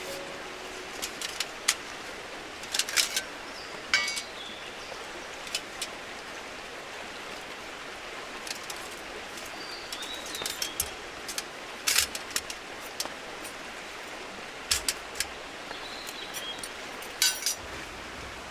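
Campfire wood crackling and popping in irregular clusters over a steady hiss of rain, with a few short high bird chirps.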